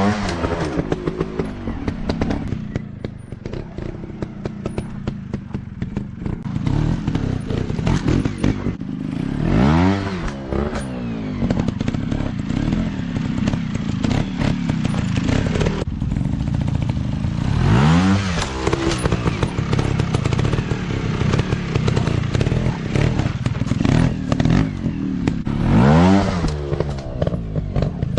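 Off-road dirt bike engines revving, the pitch rising and falling about every eight seconds as the bikes are throttled up and back, with clattering and knocking throughout.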